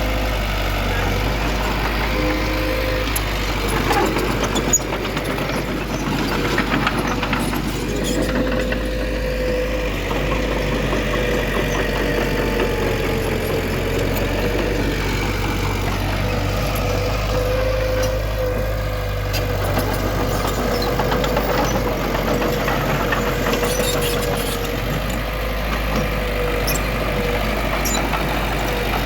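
Heavy diesel earthmoving machinery running steadily, its engine drone carrying a constant whine, with a few brief clanks.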